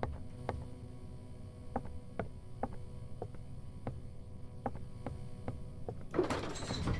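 Low steady hum with a few faint held tones, broken by light irregular ticks, the odd noise coming from a back door.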